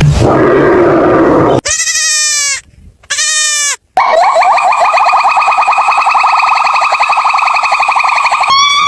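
An animal calling: two short calls, then one long quavering call lasting about four seconds. A stretch of rushing noise comes first.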